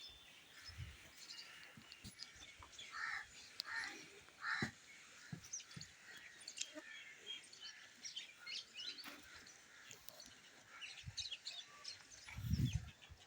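Birds chirping and calling, with three louder, lower calls about three to five seconds in, and a loud low rumble near the end.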